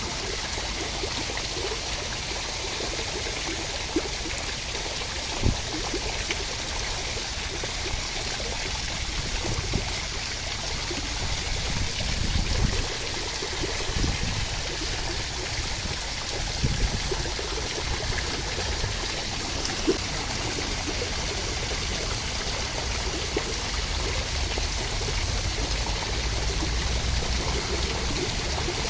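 Steady rain, an even hiss with a few sharper drip ticks.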